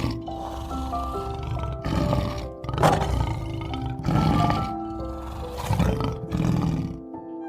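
A big cat giving a series of rough roars, about six in a row, over background music with slow, held notes.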